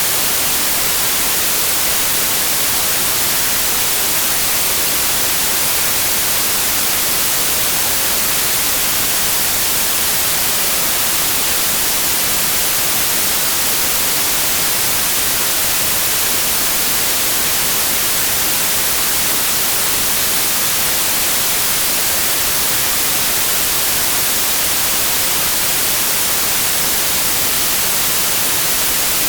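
Electronically generated white noise test signal: a steady, even hiss with no change in level.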